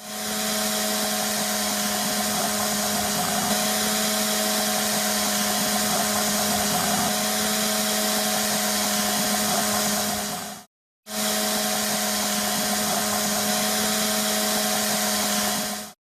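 An electric power tool motor running steadily at a constant speed, with a hiss over a steady hum. It cuts out abruptly for half a second about eleven seconds in, then runs on at the same speed.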